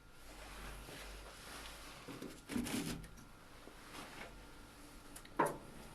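Handling noises from hands working with tools and parts: a brief rustle about two and a half seconds in and a short sharp click near the end.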